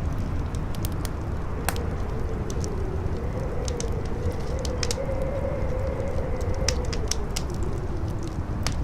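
Campfire crackling, with sharp pops scattered throughout, over strong wind rumbling low and howling in a wavering tone that rises and falls.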